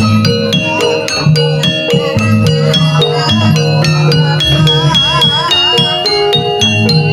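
Javanese gamelan music for a jaranan (jaran kepang) dance: metallophones play quick struck notes over a steady low part, with a wavering melody line rising above them about five seconds in.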